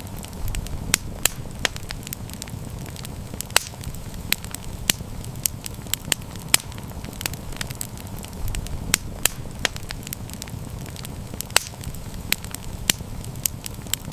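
Wood fire crackling: sharp irregular pops and snaps, a few a second, over a low steady rumble of burning.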